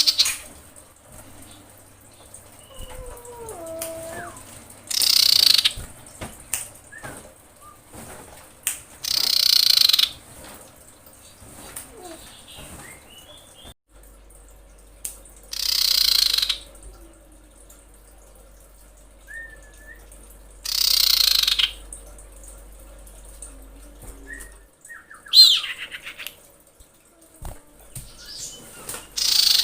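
Female common iora giving a harsh, rasping call, the call that draws males. Each call lasts about a second and comes every four to six seconds, with faint short chirps between them.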